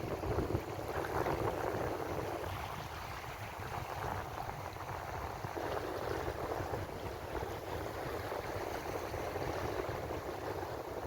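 Ocean waves washing onto the shore in a steady rush of surf, easing slightly a few seconds in and building again.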